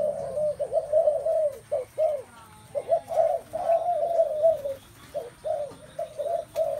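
Several spotted doves cooing, their low coos overlapping one another almost without pause.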